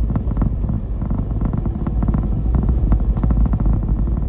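Car cabin noise while driving: a steady low rumble of tyres and engine, with many small knocks and rattles over it.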